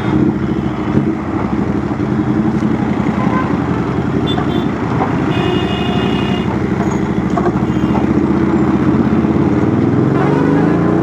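Royal Enfield Interceptor 650's parallel-twin engine running through a custom 2-into-1 exhaust while riding in traffic, its note rising as the bike accelerates near the end. A horn sounds briefly about midway.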